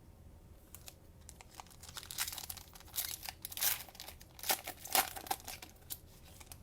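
Cellophane wrapper of a trading-card cello pack being torn open and crinkled, a run of sharp crackles that grows loudest in the middle and trails off about a second before the end.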